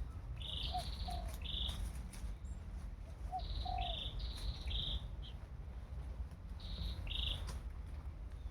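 A wild bird calling in three bursts of short, high chirping phrases, each with a lower note or two, over a steady low rumble.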